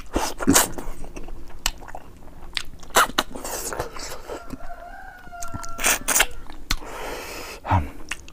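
Close-up chewing of rice and boiled fish head, with many sharp wet mouth clicks and smacks.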